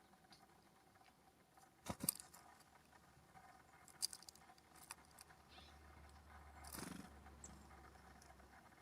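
A few sharp taps and clicks, a cluster about two seconds in and single ones near four and five seconds, then a brief scuffling rustle near seven seconds: birds pecking and shuffling at the ground feeder close to the microphone.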